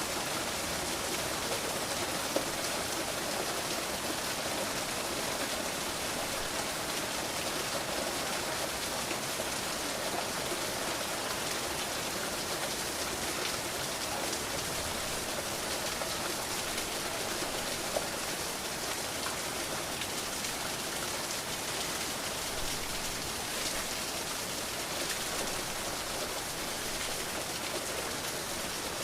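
Steady rain falling, an even hiss with a few separate drop ticks and no thunder.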